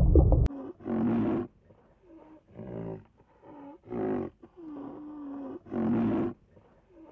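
A big cat giving a run of about ten short, pitched roaring calls, with the loudest about a second, four and six seconds in.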